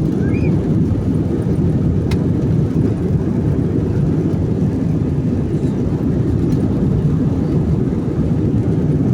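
Aeroplane at takeoff: a steady, loud low rumble of engines and the takeoff run, with a faint click about two seconds in.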